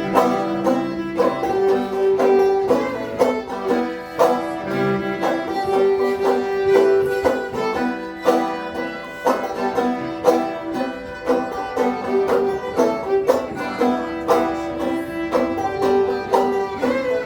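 Acoustic string band playing the instrumental introduction to a folk ballad: rapid banjo picking under long held fiddle notes, with guitar.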